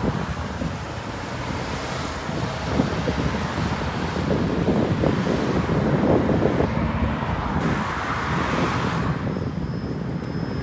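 Wind buffeting the microphone on a moving bicycle, over the steady noise of road traffic, with a swell of passing-vehicle noise near the end.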